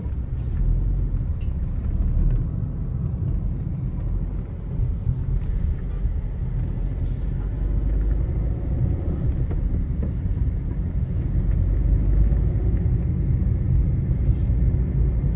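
Steady low rumble of a road vehicle in motion, with a few faint clicks.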